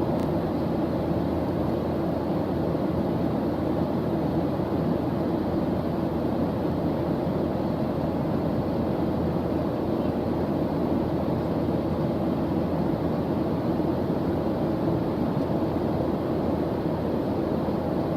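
A steady white-noise background track for studying: an even, unchanging low rushing hiss, deep rather than bright, with no breaks.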